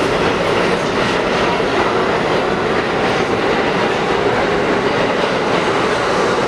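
R46 subway train running on the track: a steady, loud rumble with wheels clicking over rail joints.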